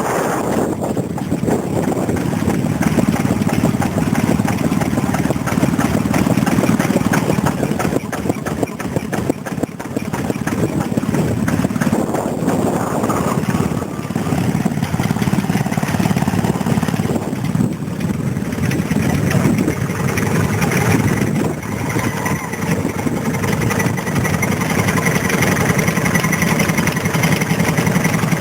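Vintage stationary engine running steadily, with a fast, even beat.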